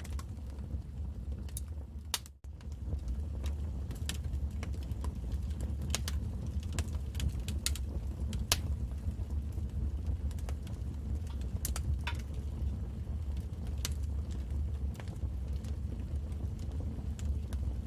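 Wood fire crackling in a fireplace: irregular sharp pops and snaps over a steady low rumble, cutting out for an instant about two seconds in.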